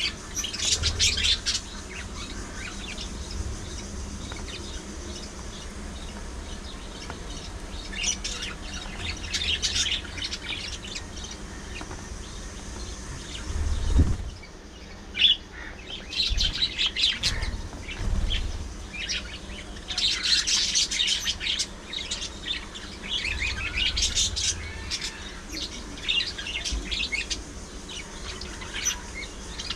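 Budgerigars chirping and warbling in repeated bursts of high, busy chatter. A single low thump sounds about halfway through.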